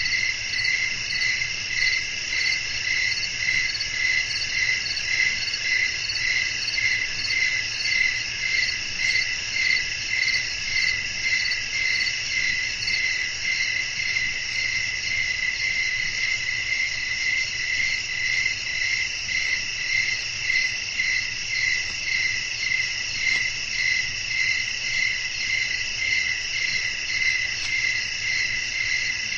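Crickets chirping in a steady nighttime chorus: an unbroken pulsing trill layered at several pitches.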